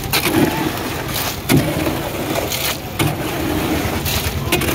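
Construction machine's engine running steadily, with a few sharp scrapes or knocks over it.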